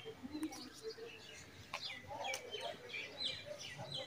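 Many small birds chirping: short, quick, falling chirps that overlap one another continuously, with a few faint clicks among them.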